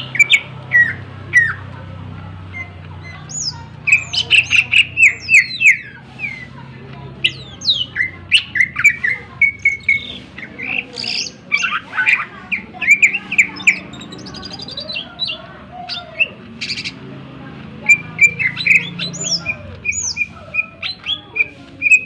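Greater green leafbird (cucak ijo) singing a loud, fast, varied song of sharp chirps, trills and whistled phrases in repeated bouts, with mimicked calls of other birds worked into it.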